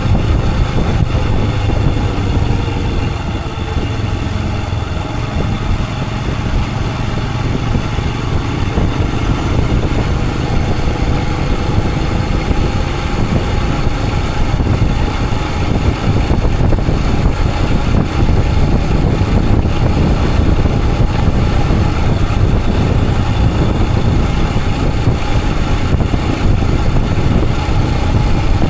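Royal Enfield Himalayan 411's single-cylinder engine running steadily as the motorcycle rides along, with a constant rush of road noise.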